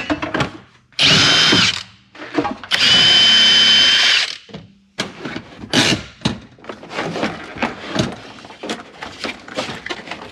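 Power drill running in two short bursts, a high whine that rises as it spins up and drops as it stops; the second burst is longer. A run of light clicks and knocks follows.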